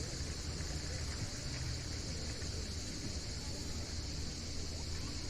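Steady outdoor background noise: a continuous high buzz or hiss over a low rumble, with no rise and fall.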